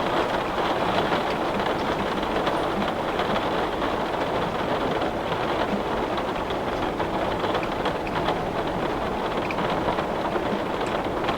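Heavy rain falling steadily on a window pane: a dense, even hiss with many small, sharper drop ticks scattered through it.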